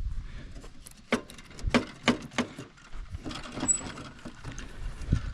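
Scattered clicks and knocks of hand tools and plastic snowmobile bumper parts being handled, with several sharp ones between about one and two and a half seconds in.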